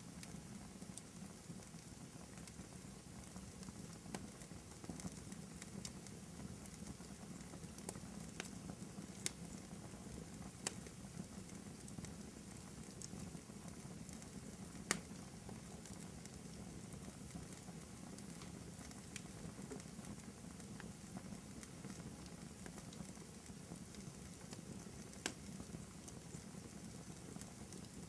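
Wood fire burning in a fireplace: a steady low rush of flames with scattered sharp crackles and pops, the loudest pop about halfway through.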